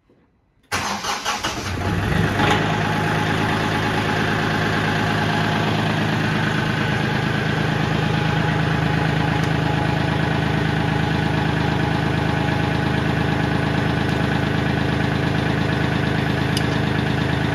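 Kioti CK4010SE tractor's diesel engine cranked by the starter. It catches after about a second and settles into a steady idle.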